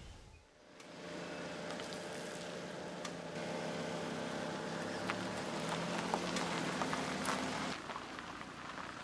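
A steady engine hum with even overtones, over a haze of patter and scattered ticks like raindrops. The hum starts about a second in and cuts off about three quarters of the way through.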